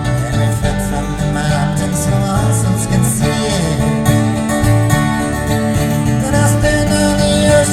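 Live band playing an instrumental passage, with guitars to the fore over a strong bass.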